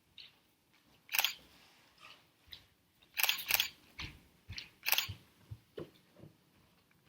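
Scattered short rustles and clicks, about half a dozen over several seconds, the loudest a cluster around the middle, over a quiet room.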